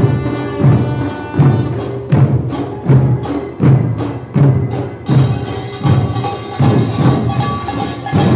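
Korean nongak percussion ensemble playing: drums strike a steady beat about every three-quarters of a second over sustained ringing tones. A brighter, denser metallic layer joins about five seconds in.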